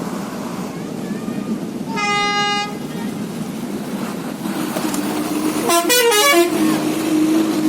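Two horn blasts over a steady rumble of wind and traffic: a single flat-pitched honk lasting under a second about two seconds in, then a wavering multi-note horn around six seconds. A steady low drone starts about four and a half seconds in.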